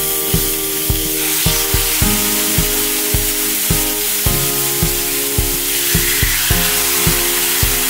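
Thin beef steaks sizzling on a very hot flat griddle as they are laid down, a steady high hiss. Background music with a steady beat plays over it.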